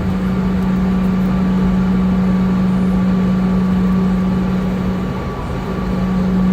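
Steady cabin drone inside a Boeing 717: a strong low hum with a fainter steady whine above it over a constant rumble, easing slightly about five seconds in and then coming back.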